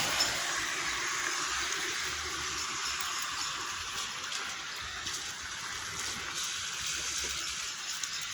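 Steady hiss of light drizzling rain, with a few faint drop ticks.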